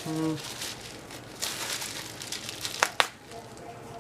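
Packing material rustling and crinkling as items are taken out of a shipping box, with two sharp clicks close together near the end.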